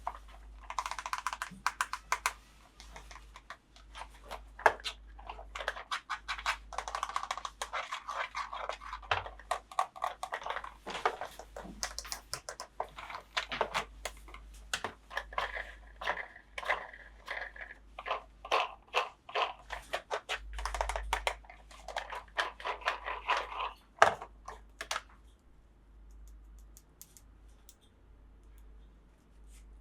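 Close-up handling of plastic toy pieces and packaging: a dense run of irregular clicks, taps and rustles that stops about 25 seconds in.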